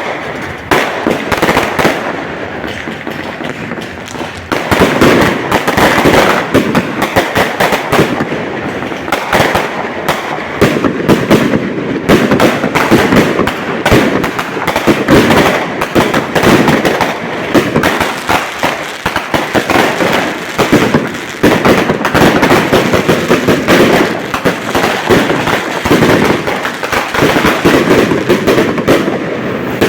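Fireworks going off in a dense, continuous barrage of rapid bangs and crackles, getting louder about four and a half seconds in.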